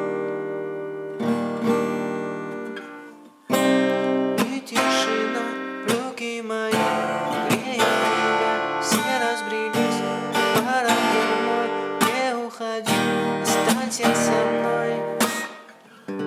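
Acoustic guitar strummed through a run of chords in a steady rhythm. The strings are briefly silenced about three and a half seconds in before the strumming picks up again.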